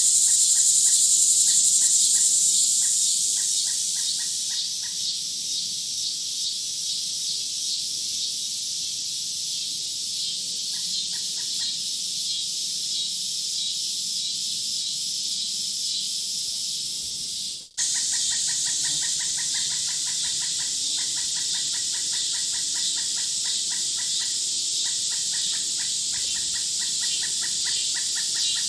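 Woodland nature ambience: a steady, high insect-like chorus with rapid repeated chirping calls. The sound cuts out for a moment just past halfway and resumes, with the chirping running more densely afterwards.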